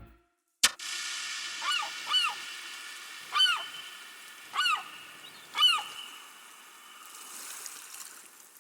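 Five short honk-like bird calls, each rising then falling in pitch, spaced about a second apart, over a faint steady hiss. A single sharp click comes about half a second in, just after a moment of silence.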